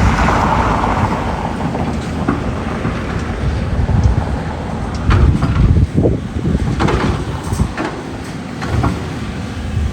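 Excavator running under load with a steady low engine rumble, and a series of irregular knocks and clanks from digging.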